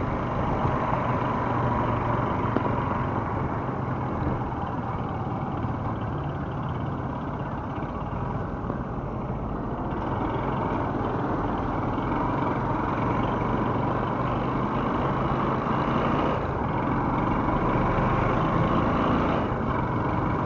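Motorcycle engine running steadily at low speed in stop-and-go city traffic, mixed with the hum of surrounding vehicles.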